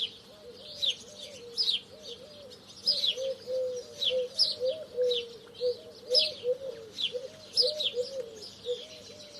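Sparrows chirping busily, short high chirps several times a second, over a lower, softer run of short repeated notes.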